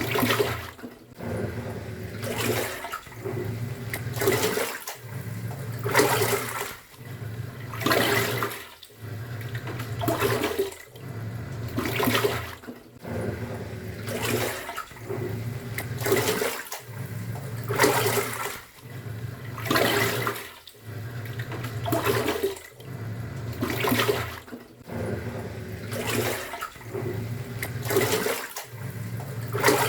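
Top-loading pulsator washing machine mid-cycle, its pulsator swinging the load back and forth in the water. Water surges and sloshes about every two seconds, with the drive motor humming between surges.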